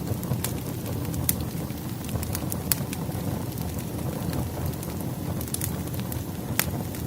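Firewood burning in a fireplace: a steady low rush of flame with irregular sharp crackles and pops, a few louder snaps scattered through.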